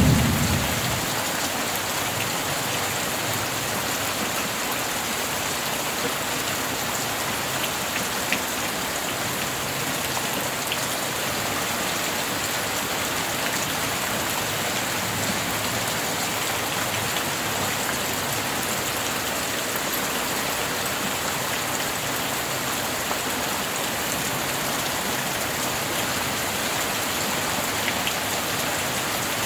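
Steady rain falling. The tail of a thunder rumble dies away in the first second.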